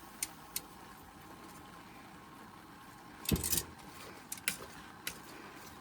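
Camp cooking handling sounds over a steady low hiss: a couple of light clicks, then a louder clatter and rustle about three seconds in as more shredded cabbage goes into the pan, followed by a few light knocks.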